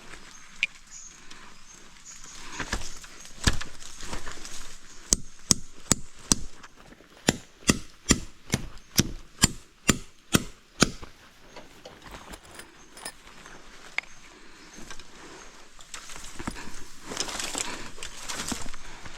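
Repeated chopping blows on wood, a run of about a dozen sharp strikes at roughly two a second, with a few scattered knocks before them and some rustling near the end.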